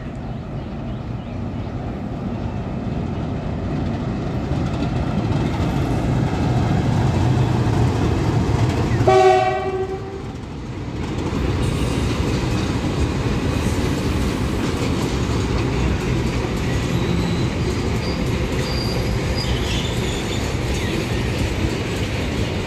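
WDG4G diesel locomotive approaching and passing, its engine rumble growing louder, with one short horn blast about nine seconds in as it draws level. Then the loaded container wagons rumble past steadily on the rails.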